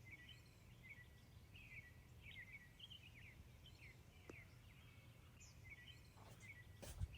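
Small birds chirping faintly, with a string of quick, short chirps repeating throughout, over a low steady outdoor rumble. A couple of soft knocks come near the end.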